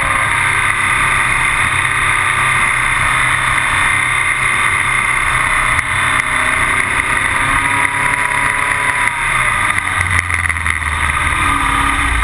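A rigid-inflatable rescue boat's twin 150 hp outboard motors running steadily, with a loud, even rush of noise over the engine note.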